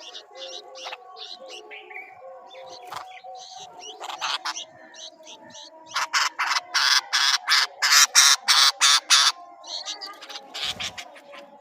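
Bulbul chicks calling in a series of short, noisy chirps. The calls come thickest and loudest in a rapid run from about six to nine seconds in.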